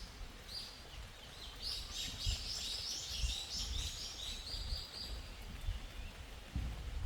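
A songbird singing a long run of quickly repeated chirping notes, about three a second, that starts after a second and a half and fades out after about four seconds, over a faint steady hiss of rain. Low rumbling on the microphone grows loudest near the end.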